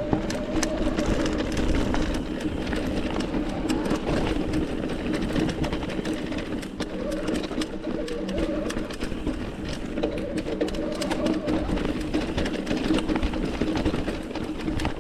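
Mountain bike ridden over rough trail: a steady mechanical whir from the bike, with frequent clicks and rattles throughout.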